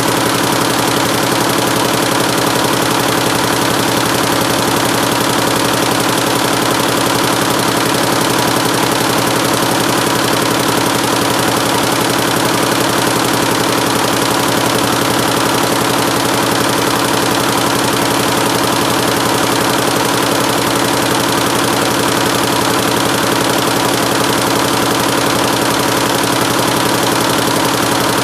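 176-needle mini Schiffli embroidery machine running steadily: a loud, fast, even mechanical clatter over a constant hum.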